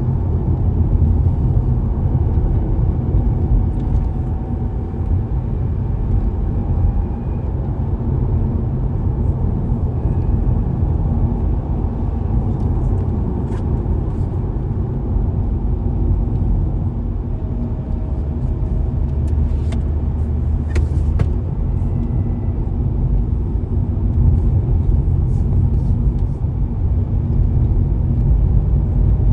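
Car driving along a road: a steady low rumble of tyre and engine noise, with faint whines that slowly rise in pitch now and then, and a couple of light clicks about two-thirds of the way through.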